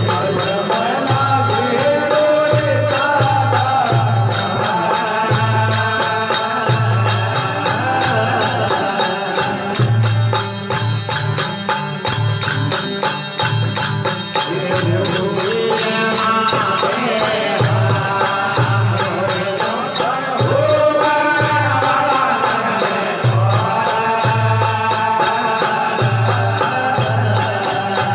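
Rajasthani desi bhajan music: a wavering melodic line over a steady drum beat and an even jingling of small cymbals or bells.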